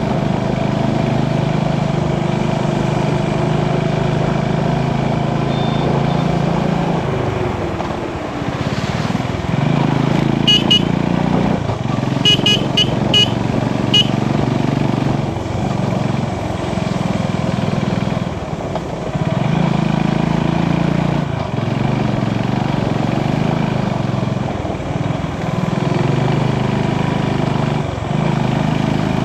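Motorcycle engine running, its pitch dropping and climbing again several times as the rider shifts and changes speed. A run of short, high horn beeps comes about ten to fourteen seconds in.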